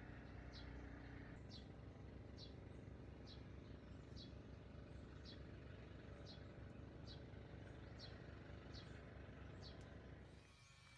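A bird giving a short, high, falling chirp about once a second, repeated steadily, over a faint low outdoor background; the background drops away near the end.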